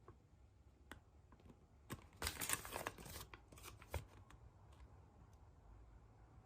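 A thin surprise-egg wrapper being torn open, crinkling for about a second, with a few sharp clicks before and after it.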